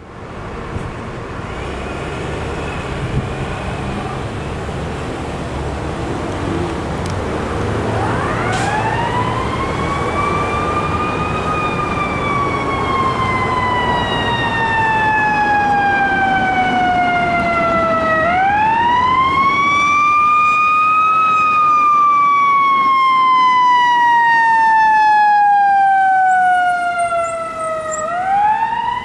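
Fire engine approaching with its engine rumbling. From about eight seconds in, its siren winds up to a high pitch and slowly falls away, three wind-ups in all, growing louder as the truck comes closer.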